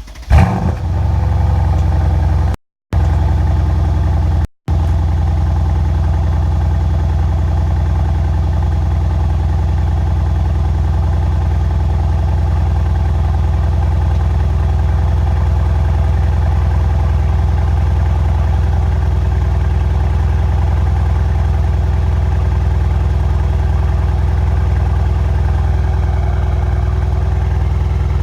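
Mercedes-AMG C63 S's twin-turbo 4.0-litre V8 cold-starting: it fires with a loud flare about half a second in, then settles into a steady cold idle. The sound drops out completely twice in the first five seconds.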